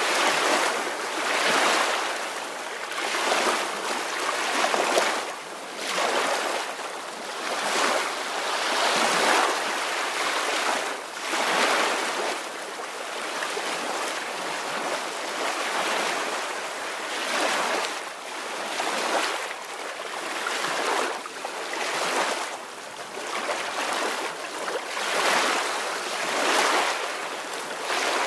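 Soft ocean waves washing ashore, a steady hiss that swells and falls back every second or two.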